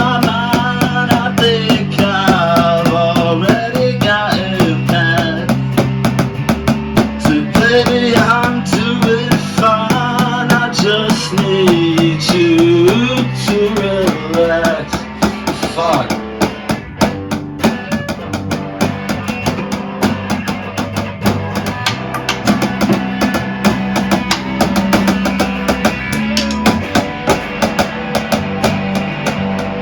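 Rock band playing a passage with no sung words: guitar, bass guitar and drum kit, with a bending melodic lead line over roughly the first half.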